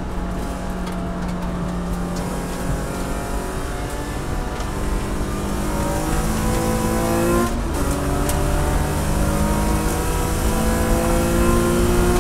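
Race car's engine at high revs, heard from inside the cockpit, pulling hard with its pitch climbing steadily. About seven and a half seconds in there is an upshift: the note breaks, drops and starts climbing again.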